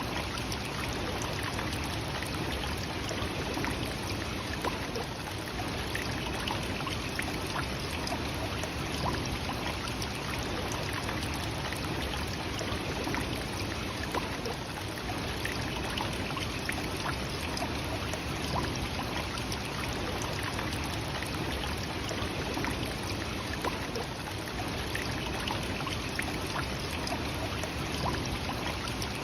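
Nachi Falls, a single tall waterfall, pouring steadily: an even, unbroken rush of falling water.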